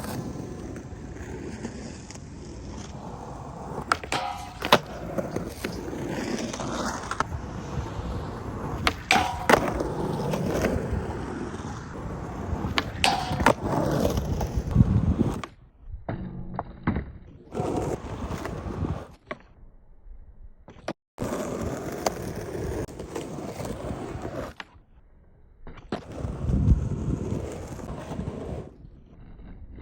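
Skateboard wheels rolling on concrete, broken by sharp clacks of the tail popping and the board landing. The sound stops and starts abruptly several times, as short clips cut one into the next.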